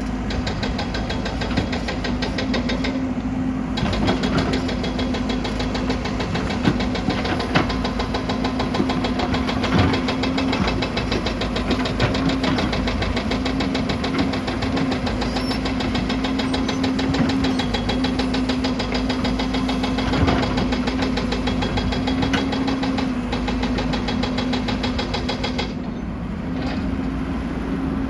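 Excavator's diesel engine running steadily with a fast, even pulsing hum, with a few sharp knocks or clanks from the machine at work.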